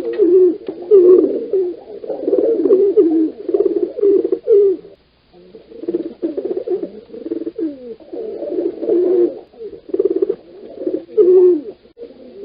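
Pigeons cooing: repeated low, warbling coos, with a short break about five seconds in.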